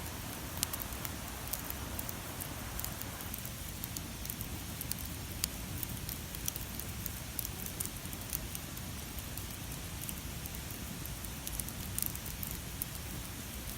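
Campfire crackling: irregular sharp pops and snaps scattered over a steady hiss.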